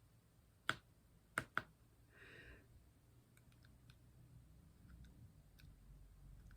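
Small hard clicks of diamond painting work: the drill pen and tiny plastic drills tapping against the canvas and tray, three sharp clicks in the first two seconds followed by a brief soft rustle and faint light ticks.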